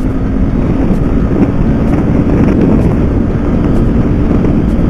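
Honda CBR150R single-cylinder engine running through a loud aftermarket exhaust while being ridden, its note fairly steady, with wind buffeting the microphone.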